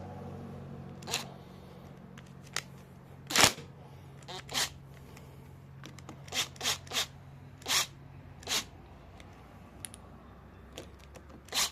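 Scattered short clicks and knocks of metal hand tools and parts being handled, with one louder knock about three and a half seconds in. A faint steady low hum runs underneath.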